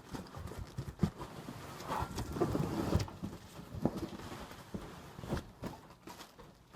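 Footsteps with scattered knocks and rustling as an item is fetched and handled, irregular and without a steady rhythm.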